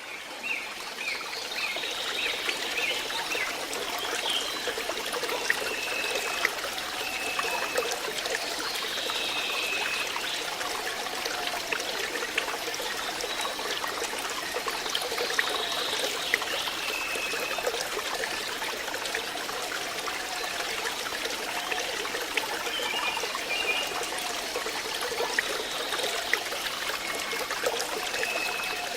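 Flowing water trickling steadily, with short high-pitched calls over it every few seconds.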